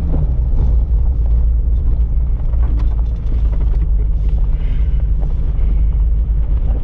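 Jeep Cherokee XJ climbing a rough mountain trail: steady low engine and drivetrain rumble with tyre and road noise, starting suddenly at the beginning, with a few faint knocks from the rocky road.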